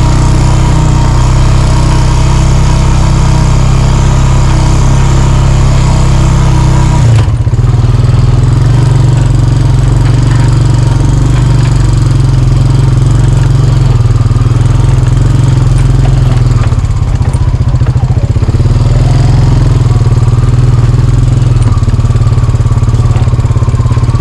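A vehicle engine runs steadily and loudly close to the microphone while being driven. The engine note changes abruptly about seven seconds in.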